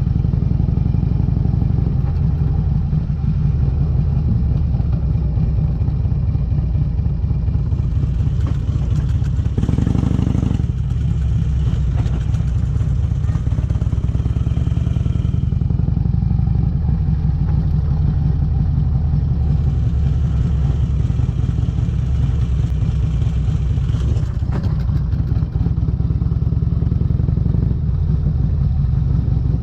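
Harley-Davidson Electra Glide's V-twin engine running through Vance & Hines exhaust pipes: a steady, loud low throb, with a brief louder rush of noise about ten seconds in.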